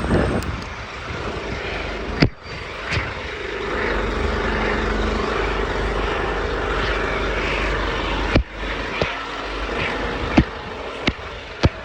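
Steady engine noise from a passing vehicle, broken twice by a sudden brief cut-out, with a few sharp knocks near the end.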